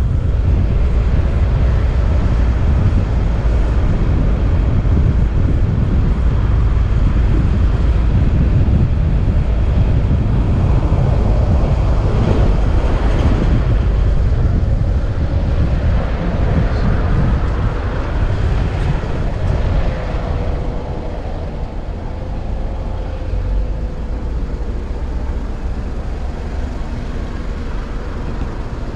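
Vehicle on the move: a steady low rumble of road and wind noise, easing slightly about two-thirds of the way through.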